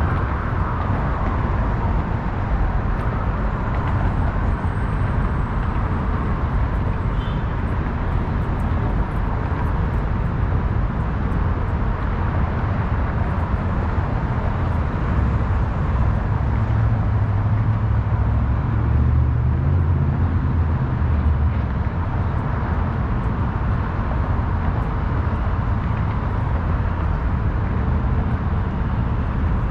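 Steady city traffic rumble and hiss, with a heavier low rumble that swells a little past the middle and fades again. A faint falling whine trails off in the first second or so.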